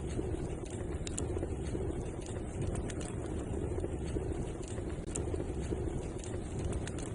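Wood fire in a fireplace burning with a steady low rushing sound, scattered with frequent small crackles and pops.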